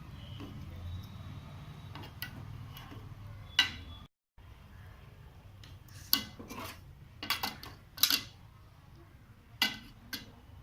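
Utensils clinking and knocking against pots and plates as the fish curry is served out for tasting: a handful of sharp separate clinks, one a little before four seconds in and a cluster from about six to ten seconds in.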